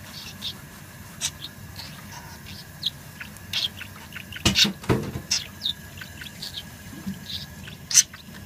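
Budgerigar chirping and chattering in short, scattered high squeaks and warbles, with a louder, sharper burst about halfway through.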